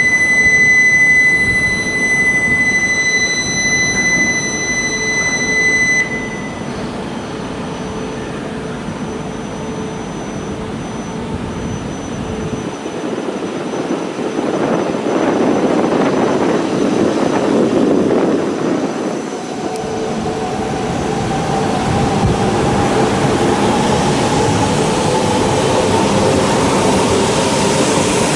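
A steady high electronic beep that stops about six seconds in, then a shinkansen train's rushing noise building up, with a whine slowly rising in pitch over the last several seconds.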